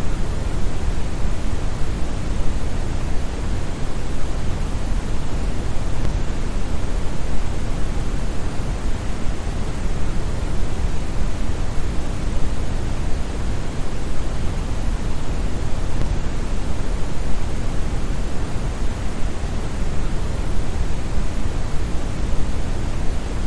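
Steady brown noise: a deep, even rushing hiss, strongest in the bass and falling off toward the highs, with no changes or events.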